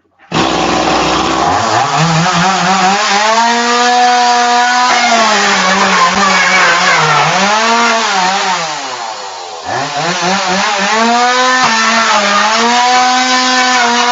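Two-stroke chainsaw coming on suddenly and revving up to high speed, then running hard with its pitch sagging and recovering again and again as it bogs under load while cutting into a refrigerator. About nine and a half seconds in it drops nearly to idle, then revs back up.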